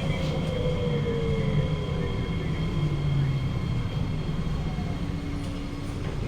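Train running, heard inside a KSF C151A MRT carriage, with the echoey traction-motor whine falling steadily in pitch over the first three seconds as the train slows. A steady low hum sets in near the end.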